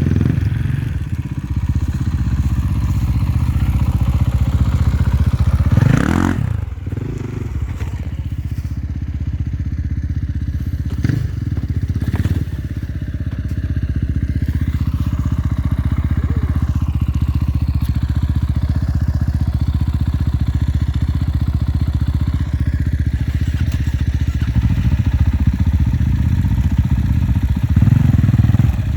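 Enduro motorcycle engines running steadily, with a brief louder surge about six seconds in.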